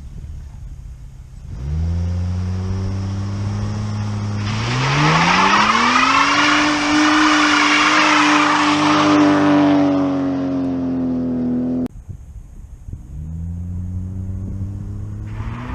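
Volvo S80 engine through a new 3-inch cat-back exhaust, running steadily, then revving up a few seconds in and holding high revs with the note sagging slightly. It cuts off abruptly, and after a short gap starts again low and begins to climb near the end.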